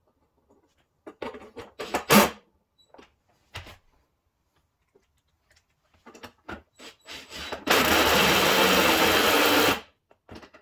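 Parts and fasteners clicking and knocking as the fender flare is handled, then a handheld power driver runs for about two seconds, driving in a flare fastener.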